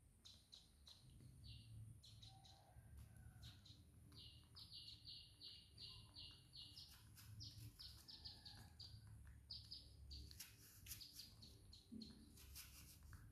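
Faint bird chirping: short high chirps in quick runs, with a few faint clicks near the end.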